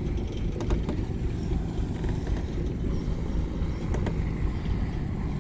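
Boat engine running steadily, a low rumble with a faint steady hum.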